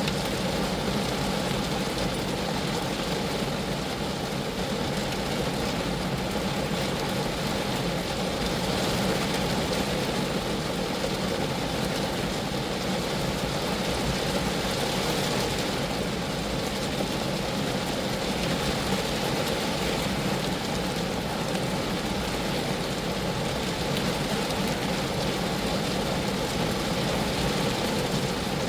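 Steady rain falling on a Geo Metro car's body, a dense, even patter that doesn't let up.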